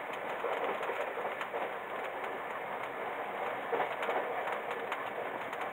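Passenger train carriage running along the track, heard from inside the sleeper compartment: a steady rolling rumble with faint clicks.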